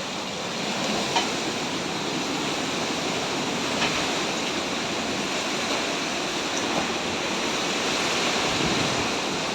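Hurricane wind and wind-driven rain rushing steadily, with a couple of brief ticks about one and four seconds in.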